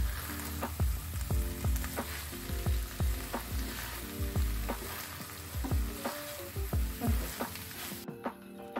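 Mushroom and vegetable stir-fry sizzling in a nonstick frying pan while being stirred. The sizzle cuts off suddenly near the end.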